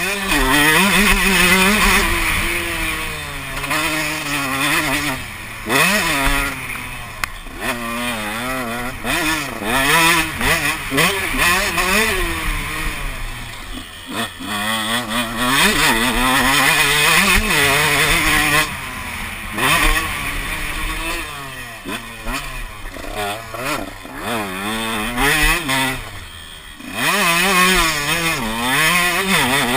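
Motocross motorcycle engine heard on board, revving up and down again and again as the throttle is opened and closed, with brief drops in engine speed between the climbs.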